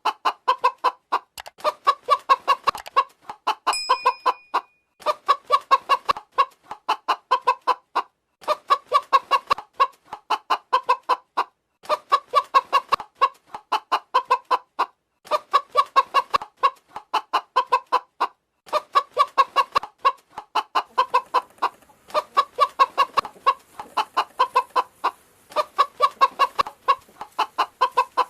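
Chicken clucking: rapid trains of short clucks in bursts of a second or two, with brief pauses between them, repeating steadily.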